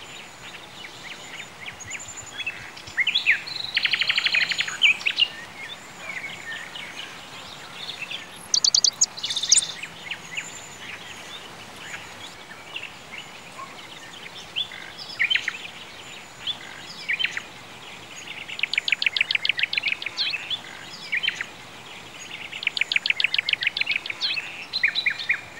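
Songbirds chirping, with a fast trill of about ten notes a second sung several times, over a steady background hiss.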